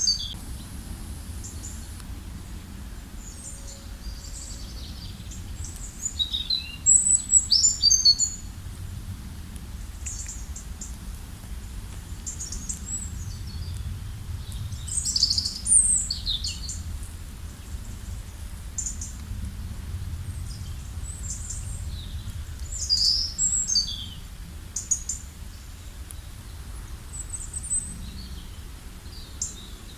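Songbirds chirping and trilling in short, high-pitched calls, with louder flurries of song now and then, over a steady low rumble.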